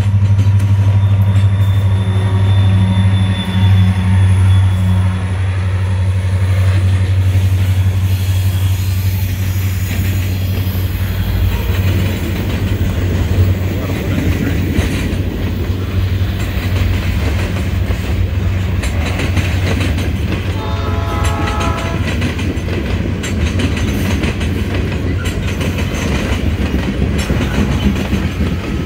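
CN SD40-3 diesel locomotive, an EMD 16-cylinder two-stroke, passing with a steady low engine drone that is loudest in the first third. Freight cars follow, rolling by with wheel clickety-clack on the rails. A train horn sounds briefly about two-thirds of the way through.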